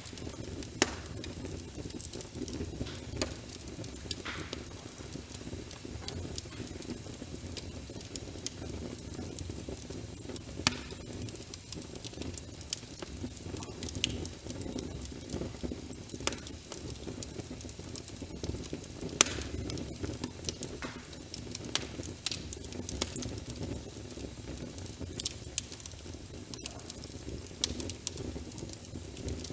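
Wood fire crackling with scattered sharp pops, two louder ones about a second in and near twenty seconds in, over a steady patter of rain.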